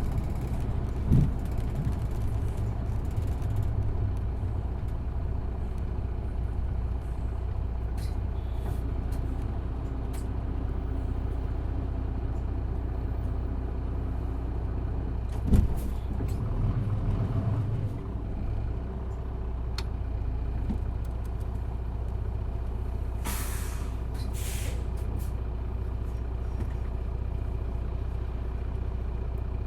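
Isuzu Erga city bus's diesel engine running steadily under way, heard from inside the cabin, with a couple of short thumps. Near the end come two short hissing bursts of air.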